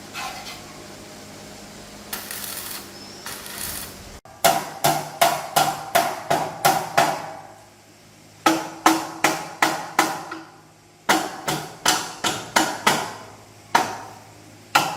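Hammer striking steel in runs of rapid blows, about three a second, each with a metallic ring, in several bursts with short pauses between. The hammering starts abruptly about four seconds in, after a steady hum.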